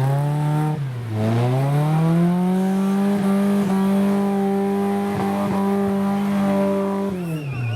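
Off-road competition vehicle's engine revving hard: the pitch dips briefly about a second in, climbs and is held high and steady for several seconds, then falls away near the end.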